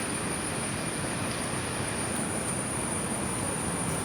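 Steady rushing roar of a large waterfall's falling water, with a constant high insect drone above it.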